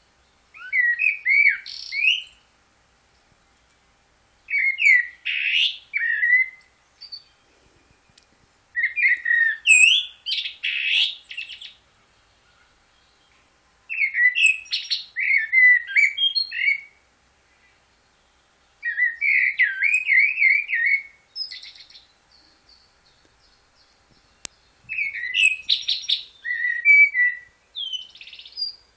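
A songbird singing in short warbling phrases of about two seconds each, six times, with pauses of about two seconds between them.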